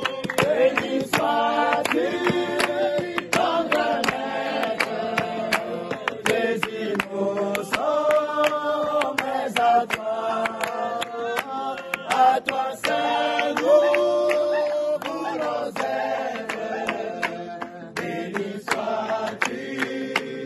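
A group singing a hymn together, accompanied by a strummed acoustic guitar.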